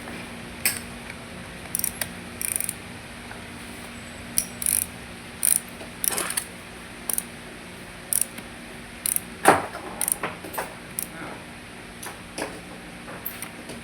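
Hand tools at work on a car engine under rebuild: irregular short metallic clicks and clinks, some in quick little runs, with one louder knock about nine and a half seconds in. A faint steady hum runs underneath.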